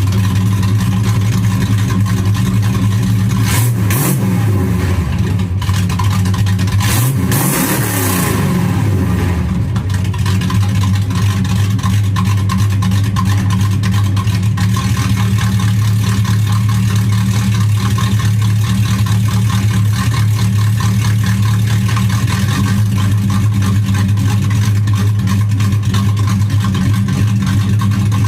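Mildly cammed Chevy 305 small-block V8 idling through its exhaust, blipped twice, briefly a few seconds in and again for a couple of seconds a little later, each time rising and falling back to idle, then idling steadily.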